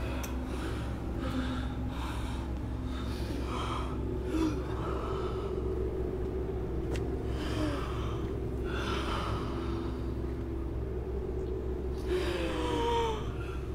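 A person breathing heavily in several surges, with gasps, over a steady low hum.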